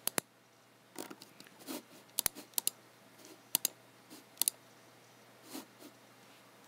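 Computer mouse buttons clicking: a handful of sharp clicks, mostly in quick pairs, with a few softer, duller sounds in between.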